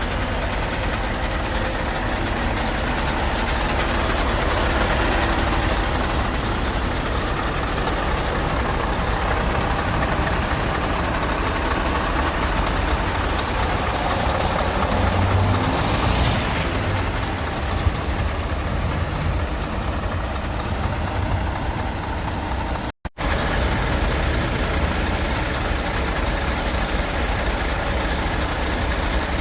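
Scania R580 tractor unit's 16-litre V8 diesel engine running steadily at idle.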